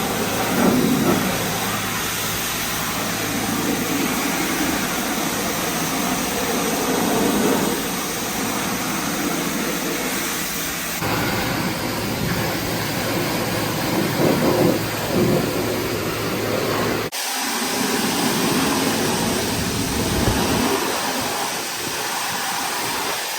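Subaru Impreza rally car driving: steady engine and road noise with a low hum, changing abruptly twice, about eleven and seventeen seconds in.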